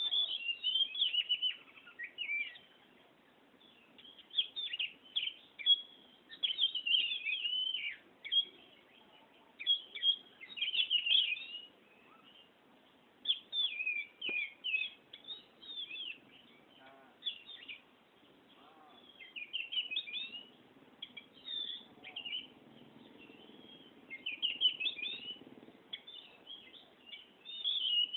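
Oriental magpie-robin singing a long run of quick, varied whistled phrases in bursts of one to two seconds with short pauses between.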